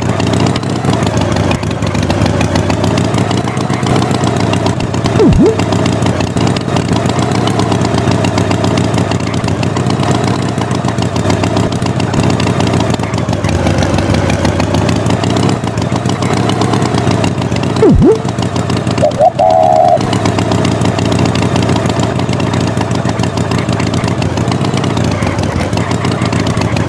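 Tractor engine running steadily, with a short higher-pitched sound about two-thirds of the way through.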